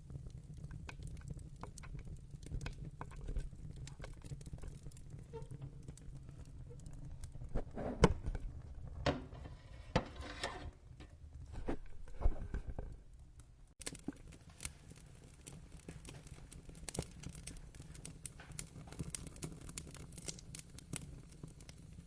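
Wood fire in a fireplace crackling and popping over a low rumble, with a cluster of louder pops and snaps in the middle.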